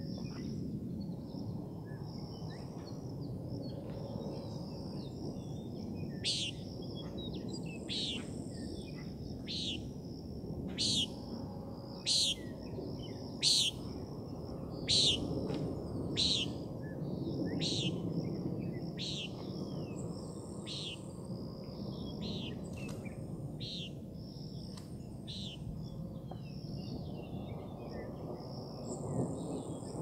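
Birds calling: sharp downward-sweeping calls, about one a second through the middle of the stretch, over a high thin steady note and a low steady background noise.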